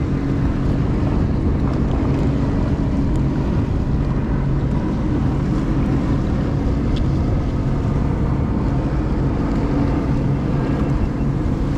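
Jet ski engine running at a steady pitch, with wind buffeting the microphone.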